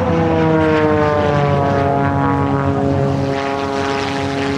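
Propeller airplane flying past, its engine and propeller note dropping in pitch over the first couple of seconds as it goes by, then holding steady.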